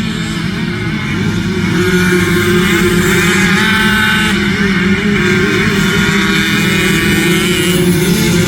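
Motocross motorcycle engines revving up and easing off, with pitch wavering up and down. The sound gets louder about two seconds in and stays loud.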